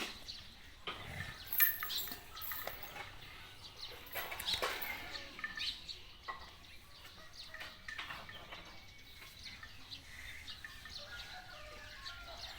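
Faint outdoor ambience with scattered bird chirps and occasional light knocks and rustles.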